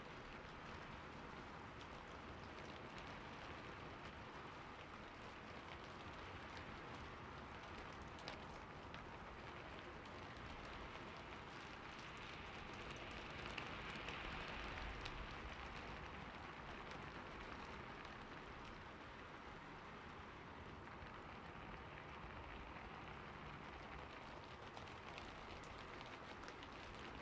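Steady rain falling on a roof, an even patter of drops that swells a little about halfway through.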